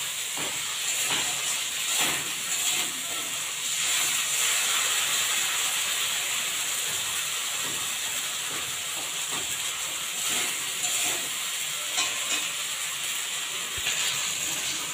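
Ground spice paste sizzling steadily in hot oil in a steel kadai, with a steel spatula scraping and turning it now and then. The oil is separating out of the masala as it fries down.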